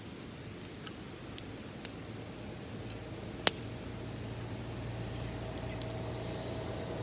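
Small wood fire crackling with scattered pops, one sharp loud snap about halfway through. A low rumble builds in the second half.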